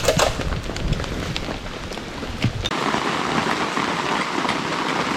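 Rain falling, with scattered drop taps over an even hiss. For the first two and a half seconds a low rumble lies under it; then it changes abruptly to a steady, brighter hiss of rain.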